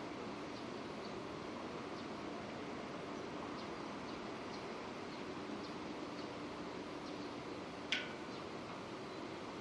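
Steady rain falling, with small scattered drip ticks, and one sharp click about eight seconds in, the loudest moment.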